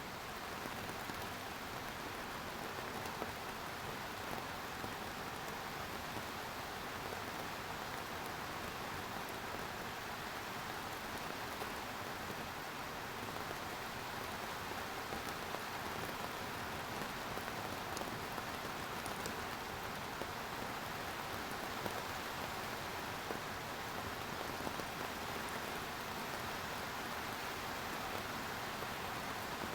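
Steady rain falling, an even hiss of many drops with scattered small patters.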